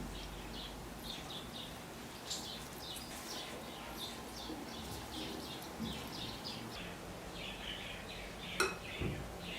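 Small birds chirping, quick high notes about three a second. A single sharp clink sounds near the end.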